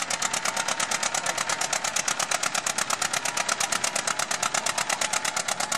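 Small garden tractor engine running hard under load while pulling a sled, with a rapid, even exhaust beat of about a dozen pulses a second.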